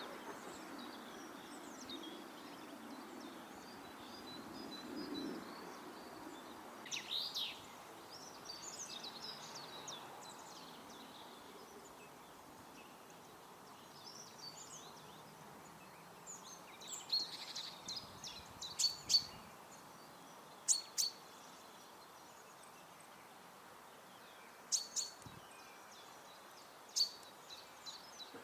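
Small garden songbirds chirping and calling in short, scattered high notes, with a few sharper single calls in the second half. Steady background noise runs underneath.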